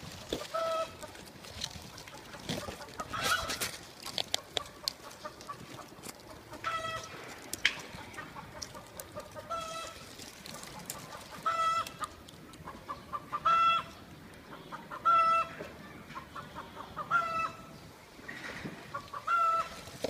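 A bird calling in short, single-pitched notes about every two seconds, louder in the second half, with light clicks and knocks between the calls.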